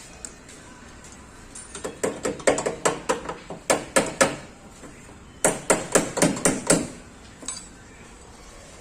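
Hammer beating out a dent in a Maruti 800's body panel, metal on sheet metal: two runs of quick blows, about five a second, with a short pause between them and one last strike near the end.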